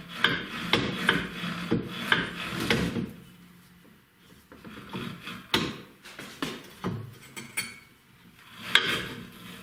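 Metal parts scraping and knocking as the swing arm of a leading-link motorcycle fork, with a dry rubber silentblock bushing on it, is forced into its mount. There are about three seconds of rubbing and clicking, then a few separate knocks.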